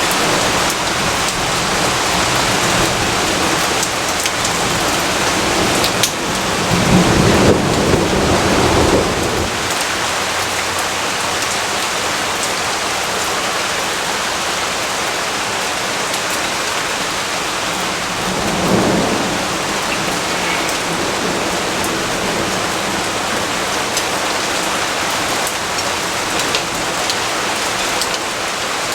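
Steady heavy rainfall with two rolls of thunder: a longer, louder rumble about a quarter of the way in and a shorter one about two-thirds through.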